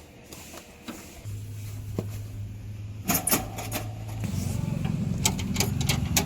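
A heavy diesel engine running steadily, getting fuller about four seconds in, with a few sharp metallic knocks and clanks over it around the middle and near the end.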